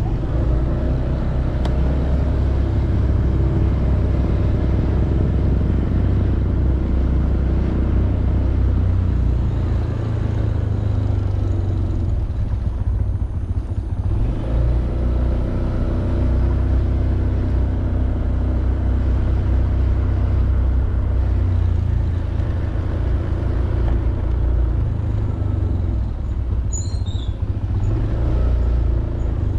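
Honda Beat 110cc single-cylinder scooter engine running under way, with a heavy low rumble throughout. The engine note eases off about 12 seconds in, then builds again a couple of seconds later.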